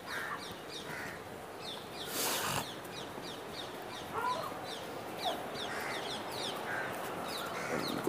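Birds chirping: short, high, falling notes repeated about twice a second, with a few lower calls mixed in. A brief rush of noise comes about two seconds in.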